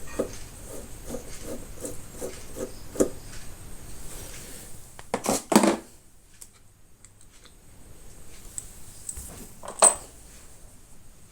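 Metal tools and parts clinking while working on a motorcycle's front brake master cylinder: a run of light, even taps for the first few seconds, then two loud clanks and a single sharp clink near the end.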